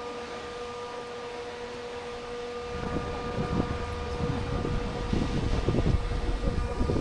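Steady drone of a cruise boat's engine. Wind gusts on the microphone join in a little under three seconds in and grow louder.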